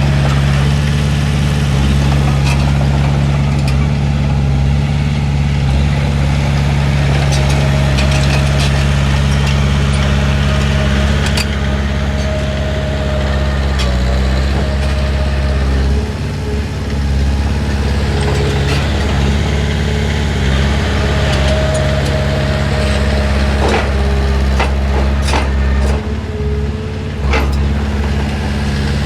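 Heavy diesel earthmoving machine running steadily at work, its engine note constant, with scattered metallic clanks and a faint squeal that comes and goes.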